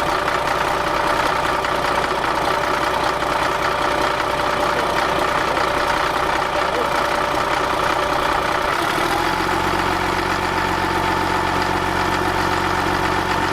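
Caterpillar D6D dozer's diesel engine running steadily, just brought back to life after sitting for years. About nine seconds in, its note changes as the engine speed shifts.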